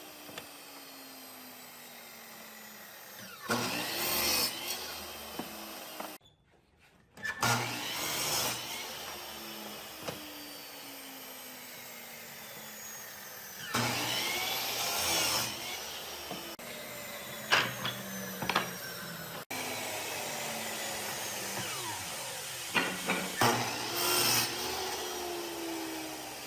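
Power tools working wood: several loud bursts of cutting or grinding over a steady motor hum, with a few sharp knocks in between and a brief drop to near silence about six seconds in.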